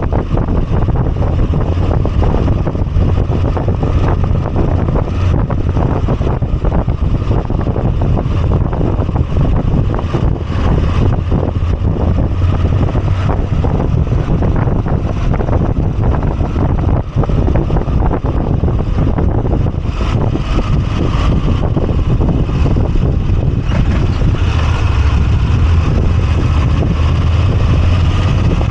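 Moto Guzzi V85TT's air-cooled transverse V-twin running steadily while riding, with wind rushing over the microphone. A rising whine comes in near the end.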